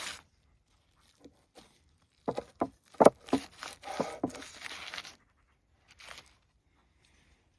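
A quick run of sharp clicks and knocks with short scraping noises, from about two seconds in to about five seconds in, then a single brief scrape near six seconds.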